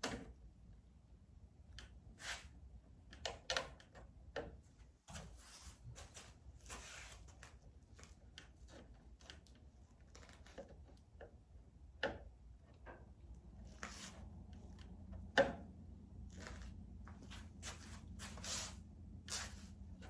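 Scattered clicks, knocks and rustles of parts being handled as a model airplane's cowl is test-fitted over a dry-fitted electric motor, with one sharper knock about three-quarters of the way through. A faint low steady hum starts about two-thirds of the way in.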